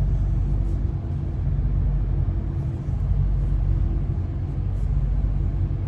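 Steady low rumble of a passenger train running, heard inside the carriage, with a faint steady hum above it.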